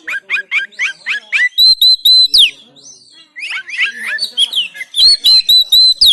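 Oriental magpie-robin singing loudly. It opens with a quick run of about eight rising chirps, then gives bursts of repeated sharp flat whistles. After a short pause about halfway it mixes varied notes, and ends on more repeated whistles.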